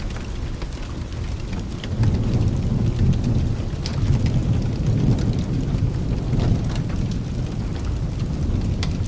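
Thunder rumbling low over steady rain. The rumble swells about two seconds in and slowly fades, and scattered sharp ticks run through it.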